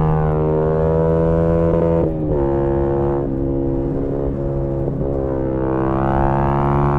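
Single-cylinder engine of a 2018 Yamaha MT-125 with an aftermarket GPR exhaust, running under steady throttle. The note dips briefly about two seconds in, then picks up again and rises gently near the end.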